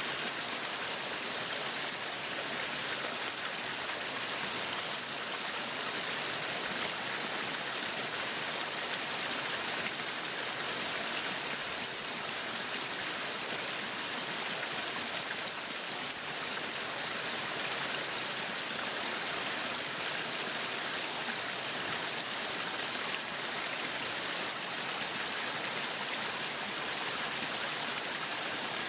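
Meat sizzling on a yakiniku grill: a steady, even crackling hiss.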